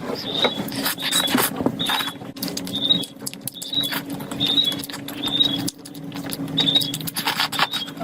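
Close-miked eating sounds: irregular wet smacking, chewing and clicking while someone eats curry. A short high chirp repeats about once a second over a steady low hum.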